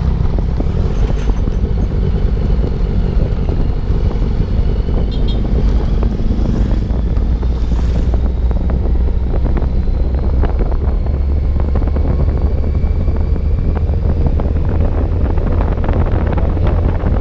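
Steady wind rush on the microphone of a moving motorcycle, with the engine running underneath, its pitch drifting slowly.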